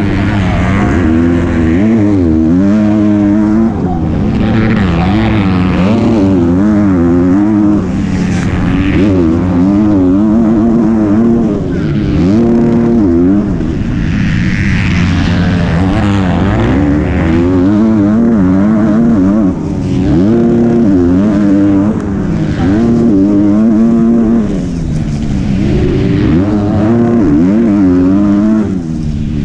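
MX2 motocross bike engine heard from on board, repeatedly revving up and dropping back as the rider works the throttle and gears around the track.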